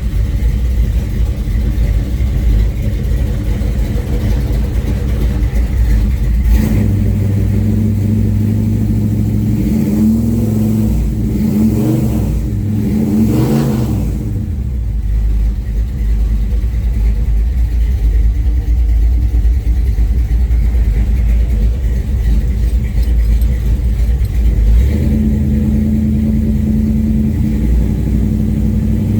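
Old Chevrolet engine running after a cold start, with a few revs that rise and fall between about ten and fourteen seconds in, then settling back to a steady run.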